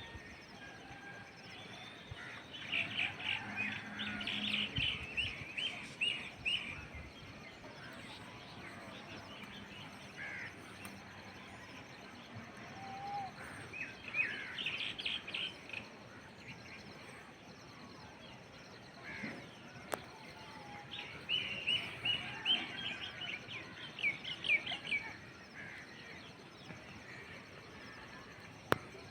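Birds singing in three bouts of rapid, high chirping, each a few seconds long, over a steady outdoor background hiss.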